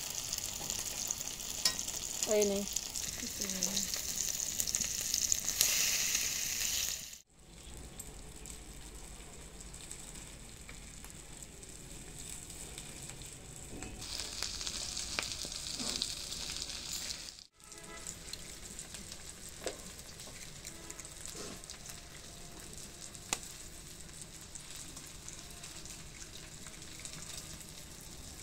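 Egg-coated shami patties frying in shallow oil on a flat iron griddle (tawa), a steady crackling sizzle that is louder for the first several seconds and then settles lower.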